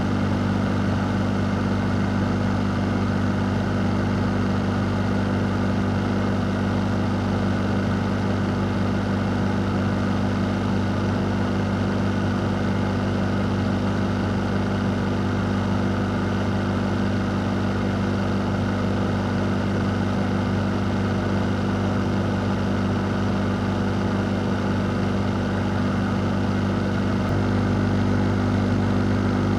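Electric fan running steadily: an even rush of moving air over a constant low motor hum, getting slightly louder near the end.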